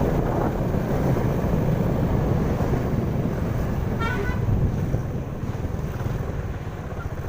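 Wind buffeting the microphone over the rumble of road traffic, with a brief high-pitched tone about four seconds in.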